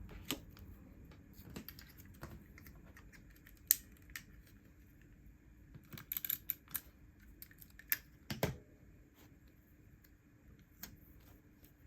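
Scattered light clicks and taps from stationery being handled, with a cluster of quick ticks partway through and a brief louder rustle about eight seconds in.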